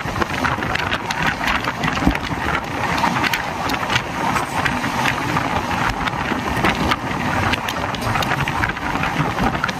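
Express train running along the track: a steady rumble and hiss of wheels on rails, with frequent sharp rattles and clicks.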